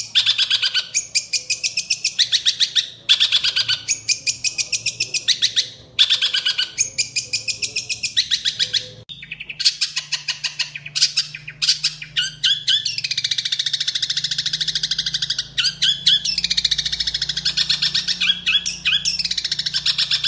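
Long-tailed shrike (cendet) singing a loud, fast run of harsh chattering notes. Its song is filled with mimicked house sparrow chirps. In the first half it comes in short runs with brief breaks, and from about halfway it sings in longer, unbroken runs.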